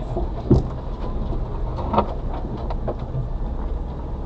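Suzuki Carry kei truck's 660cc three-cylinder engine running slowly, heard from inside the cab, with two sharp knocks, about half a second and two seconds in, as the truck lurches over lumpy ground.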